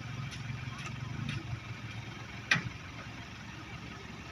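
A vehicle engine running steadily at low revs, with one sharp knock about two and a half seconds in.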